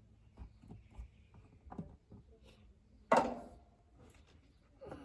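Handling noises: scattered light taps and knocks, with one loud clunk about three seconds in that rings off briefly, and a short rustle near the end.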